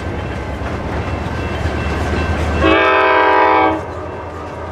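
Train rolling with a steady rumble, and about three seconds in a locomotive air horn sounds one short chord, about a second long.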